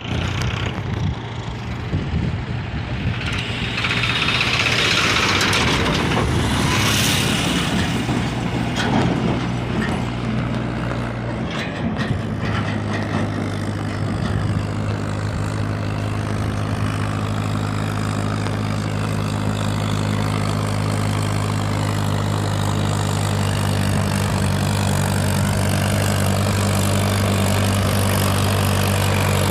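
Mahindra 585 DI XP Plus tractor's four-cylinder diesel engine running. The first part is uneven, with a hiss that swells and fades and a few knocks. About twelve seconds in it settles into a steady, even drone.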